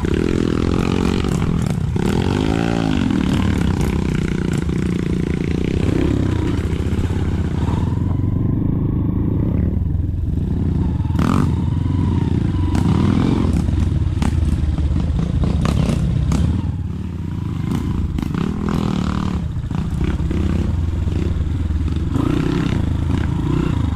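Motorcycle engine running and revving up and down repeatedly, with scattered knocks and clatter.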